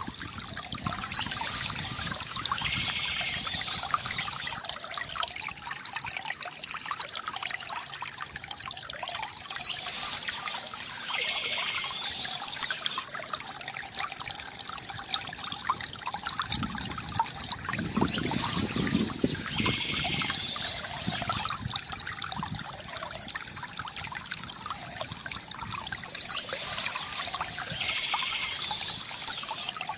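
Stream water trickling and splashing steadily, the same stretch of sound repeating about every eight to nine seconds.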